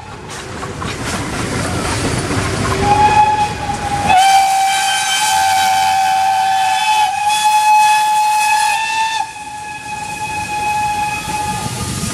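Steam locomotive whistle blowing one long steady blast, loudest from about four seconds in until about nine seconds, then fading to a weaker note. Before the whistle sounds, escaping steam hisses.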